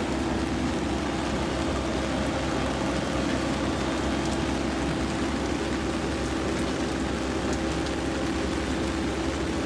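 Steady rain falling on a wet airport apron and umbrellas, with a steady low machine hum underneath.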